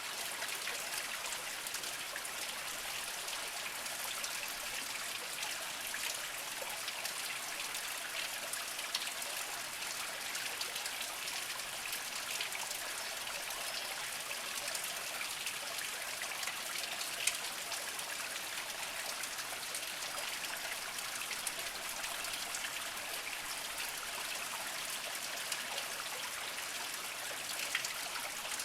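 Small spring-fed stream trickling over mossy rocks: a steady, even babble of water with small splashes and drips.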